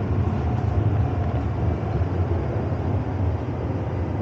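Cabin noise of a rubber-tired automated shuttle train running along its track: a steady low rumble with a faint steady whine above it.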